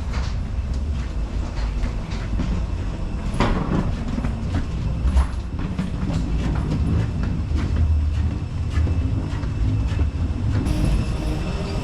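Train running on rails: a steady low rumble with clattering clicks of the wheels, and a high wheel squeal setting in near the end.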